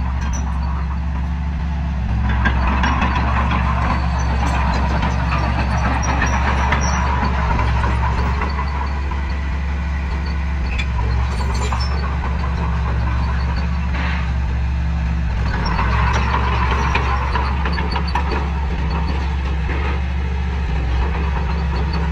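Diesel engine of heavy earthmoving machinery running steadily, with two stretches of louder, rougher noise under load.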